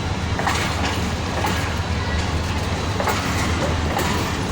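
Passenger train running on the track: a steady low rumble with a few irregular sharp clicks of the wheels over the rails.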